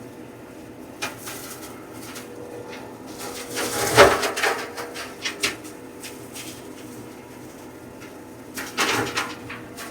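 Compact tractor running a PTO-driven flail mower through thick overgrowth: a steady hum from the engine and driveline under irregular crackles and thwacks of brush being struck, loudest about four seconds in and again near nine seconds.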